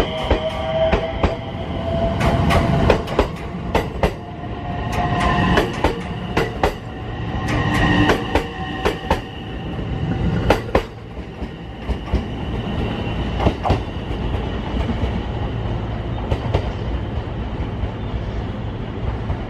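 Train moving through a station: wheels clicking over rail joints above a rumble, with a rising whine and squealing tones. About halfway through the clicks thin out and the sound settles to a steadier rumble.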